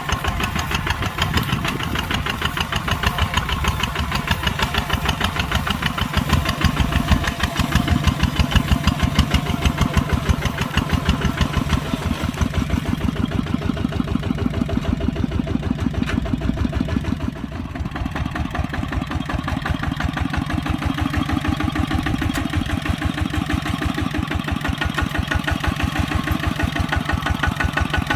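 Kubota tractor's diesel engine running with a rapid, even chug. The level dips briefly a little over halfway through, then the engine runs on with a duller tone.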